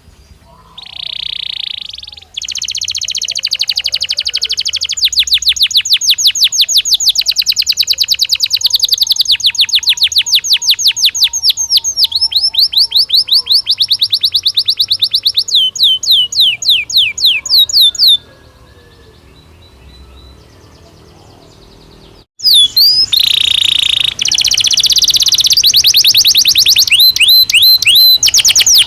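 Belgian canary singing in long, very fast trills of high notes. It stops about 18 seconds in and starts again about four seconds later.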